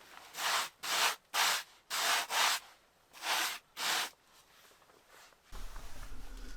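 About seven short rasping strokes in quick, uneven succession, like something being rubbed or scraped. Near the end a low steady rumble sets in.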